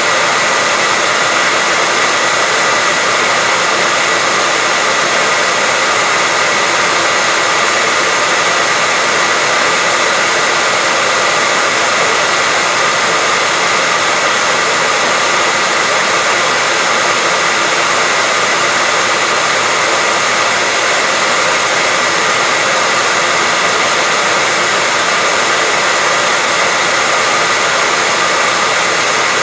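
Hair dryer running steadily: an even rush of blown air with a constant high whine from its motor, unchanging throughout.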